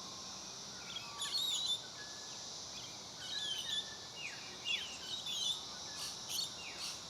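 Willie wagtails giving short, high chirping calls in quick clusters about once a second, with a few brief falling whistles, over a steady high hum of insects.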